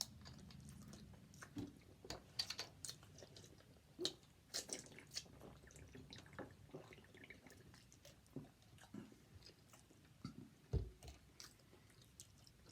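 A person chewing and biting food close to the microphone, with faint, irregular wet smacks and clicks of the mouth.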